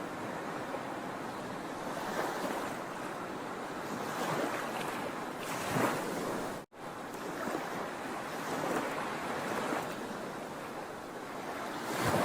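Sea waves breaking and washing ashore, a continuous surf that swells and eases every couple of seconds. The sound cuts out for an instant just past the middle.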